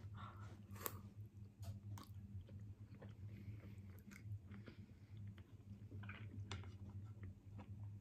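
Faint chewing of chewy tteokbokki rice cakes, with a few light clicks of chopsticks against the dish, over a steady low hum.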